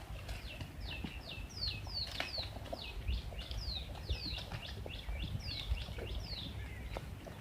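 A bird calling: a run of short notes that each drop in pitch, two or three a second, with a brief pause partway through, stopping about a second before the end.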